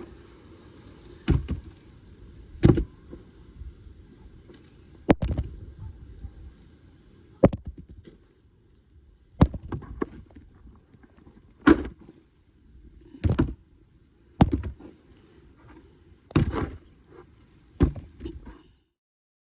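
A series of about a dozen sharp knocks or thuds, one every second or two, over a faint low steady hum. The knocks stop just before the end.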